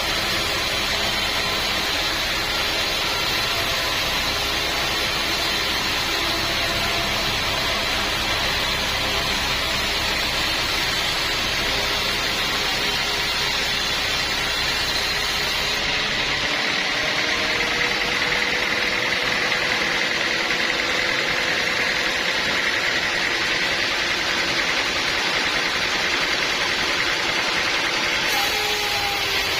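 Portable sawmill running steadily, a dense mechanical noise with engine hum. From about halfway for some twelve seconds the sound changes and a steady high whine comes in, then the earlier sound returns near the end.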